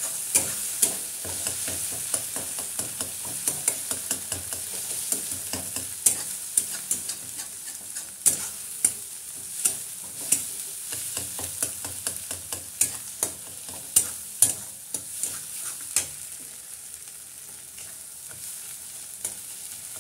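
Food frying and sizzling in a hot metal kadai while a metal spatula stirs and scrapes it, with frequent sharp clicks of the spatula against the pan. The sizzle eases off a little in the last few seconds.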